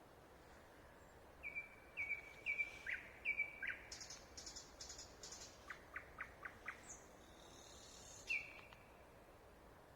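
A songbird singing at night, which the recordist takes for a nightingale without being sure. Its phrase is a few repeated clear notes with short falling tails, then a burst of high thin notes, then a quick row of about five clicks, and one last note near the end, faint over a soft background hiss.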